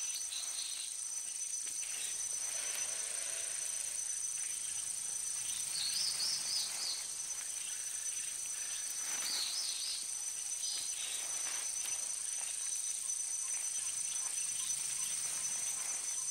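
Steady high-pitched insect chorus, with a few short high chirps about six and nine and a half seconds in.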